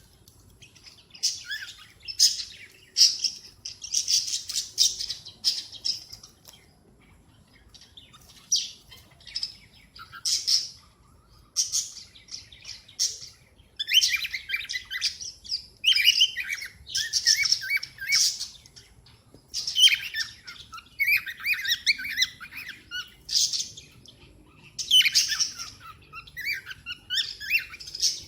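Cockatiels chirping and calling in a long series of short, high bursts with brief pauses between them.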